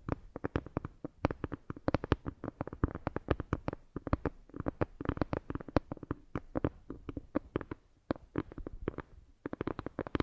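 Close-miked ASMR trigger sounds: a rapid, irregular run of crisp clicks and taps, several a second.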